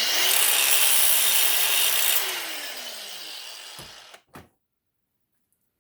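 Handheld electric power tool, most likely a grinder, cutting or grinding on metal: it runs hard for about two seconds, then is released and winds down with a falling pitch. Two short knocks follow.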